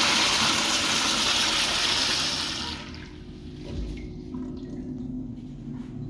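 Toilet flushing, the end of the flush: a loud rush of water that dies away about three seconds in, leaving a much quieter steady background with a low hum.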